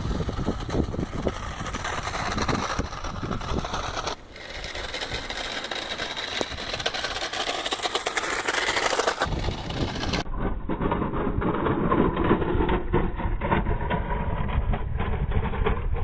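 Remote-control model car driving around a small course: its motor running with clattering and scrabbling from the chassis and tyres. The sound changes abruptly a few times.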